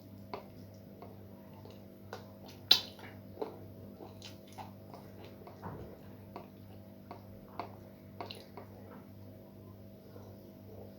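Close-miked eating: irregular wet chewing and mouth smacks, one or two a second, with one sharper click nearly three seconds in, over a steady low hum.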